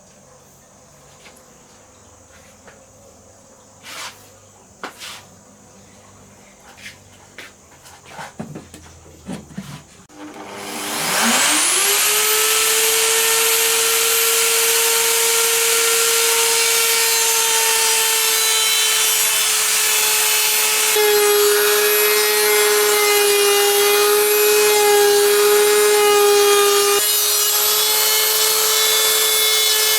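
A few light knocks and taps, then about ten seconds in an electric power tool spins up and runs steadily, working wood; its pitch drops a little under load partway through and comes back near the end.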